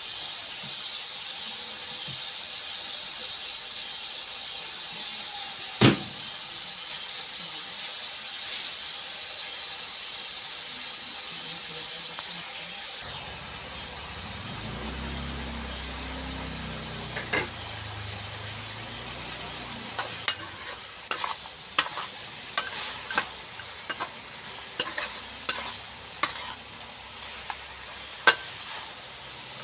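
Chicken pieces sizzling steadily in oil and juices in a wok, with one sharp knock of the metal spatula on the pan. About halfway the sizzle drops, and later the spatula stirs with a string of sharp clacks and scrapes against the wok.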